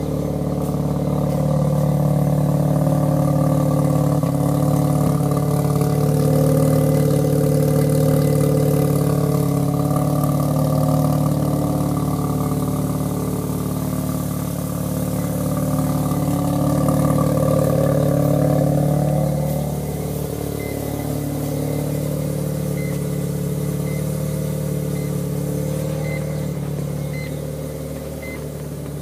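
Mazda RX-7 FD3S's 13B twin-rotor rotary engine, converted to a Borg Warner S366 single turbo, running steadily with its pitch wavering slightly. About two-thirds of the way through it settles lower and quieter, and a faint beep then repeats about once a second.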